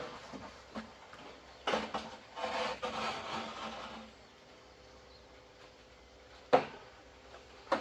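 Handling knocks and a stretch of scraping, rubbing noise, with a single sharp knock near the end.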